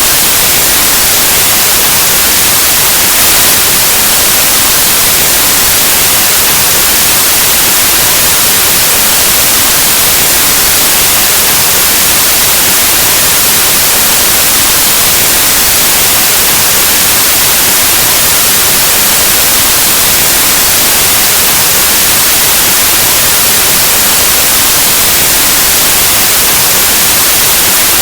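Loud, steady white noise: an even hiss across the whole range, like analogue TV or radio static.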